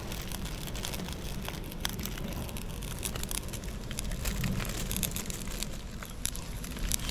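Small wood fire in a micro stove crackling, with many sharp pops over a steady hiss.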